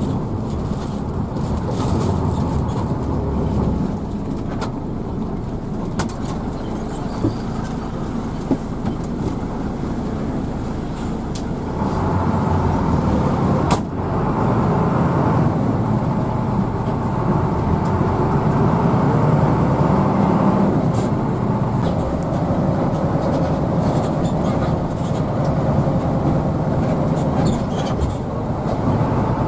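Engine and road noise of a moving Hino AK bus, heard inside the passenger cabin. It grows louder with a rising engine note about twelve seconds in, then eases after about twenty seconds.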